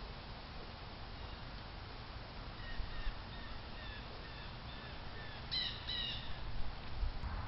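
A bird calling: a run of short, slightly falling calls, about two a second, ending in two louder calls, over a steady hiss.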